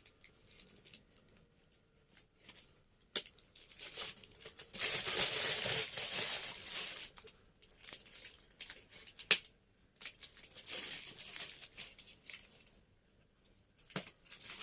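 Packaging being opened by hand: wrapping crinkling and tearing, loudest for about two seconds some five seconds in, with a few sharp clicks.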